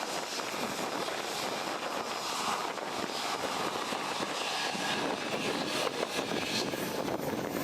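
Aircraft engine noise overhead: a steady rushing drone.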